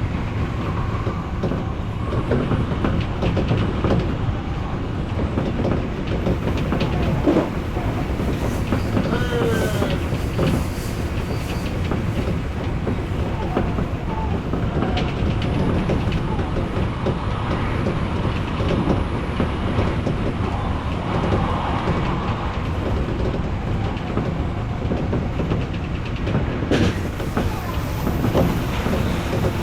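Odakyu electric commuter train running along the track: a steady rumble with wheels clicking over rail joints and a few short wavering whines now and then.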